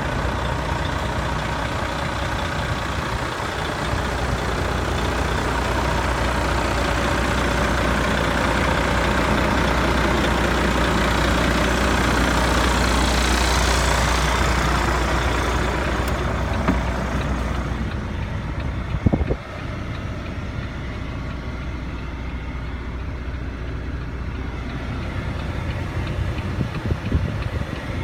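Volvo FH 13.440 truck's 13-litre six-cylinder diesel running steadily, with a strong low rumble. A hiss over the top fades away about two-thirds of the way through, and there is a sharp click soon after.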